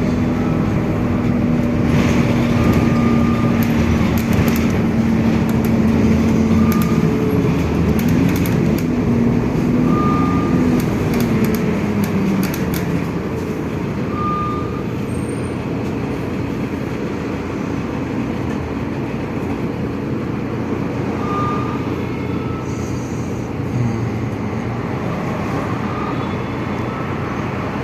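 City bus engine running under way, heard from inside the passenger cabin, with road and tyre noise. The engine note holds steady, shifts in pitch about a third of the way through, then settles quieter. Short faint beeps come every few seconds.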